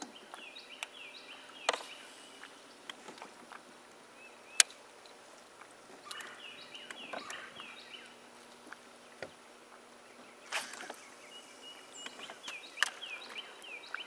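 A bird chirping in three runs of short, high, downward-sliding notes, with scattered clicks and knocks between them; the sharpest click comes about four and a half seconds in.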